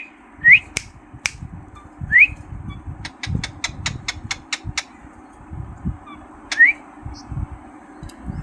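Pet rose-ringed parakeet giving short rising whistles, three times, with a quick run of about ten sharp clicks in the middle.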